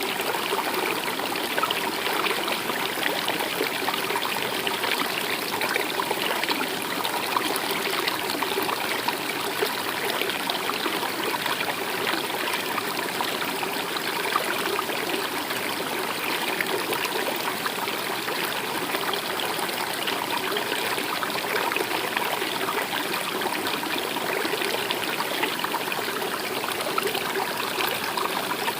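Running water of a stream flowing steadily, a constant trickle with no pauses.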